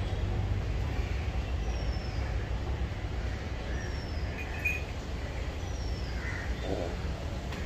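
A steady low rumble, with a small bird's short, high, falling call repeating about every two seconds.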